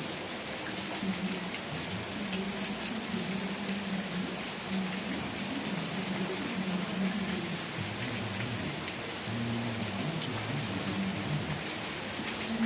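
Steady rain falling: an even hiss of drops with scattered sharper drip ticks, over a low wavering hum.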